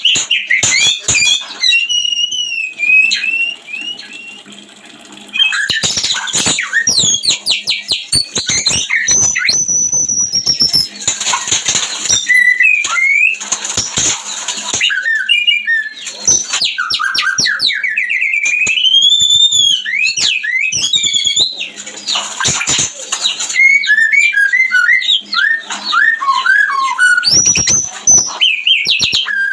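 White-rumped shama (murai batu) singing its breeding song: loud, varied whistled phrases mixed with fast chattering note runs. One long rising whistle comes about two-thirds of the way in, and a quick run of falling notes follows near the end.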